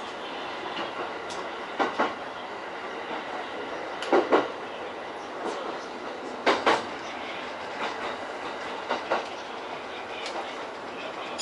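E231-series electric train running slowly, its wheels clicking over rail joints in pairs, one pair every two to two and a half seconds, over a steady running noise.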